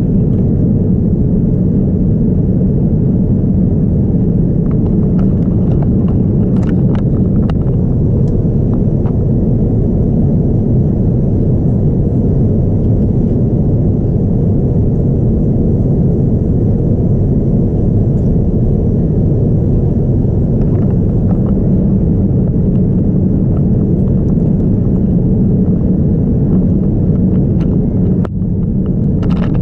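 Steady low rumble of engine and airflow noise inside a Boeing 787-9 airliner's cabin in flight. A few faint clicks come about seven seconds in and again near the end.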